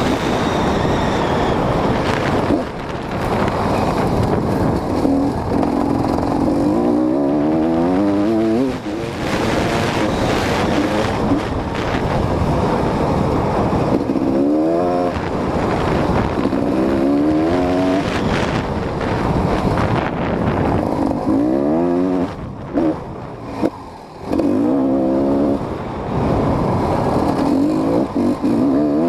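GasGas EC 250 two-stroke dirt bike's single-cylinder engine revving hard under riding, the pitch climbing steeply in repeated runs and dropping off between them.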